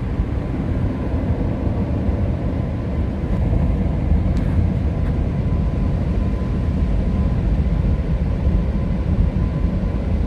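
Car-wash air dryer blowers running, a steady, loud rushing roar heard from inside the car, getting a little louder about three and a half seconds in as the car moves further under them.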